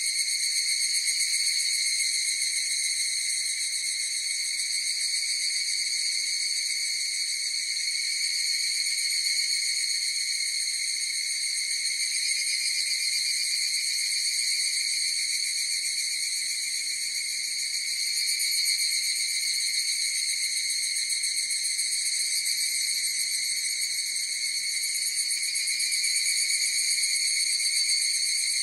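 Chorus of higurashi (evening cicadas, Tanna japonensis) calling together as a steady, unbroken high trill with no pauses.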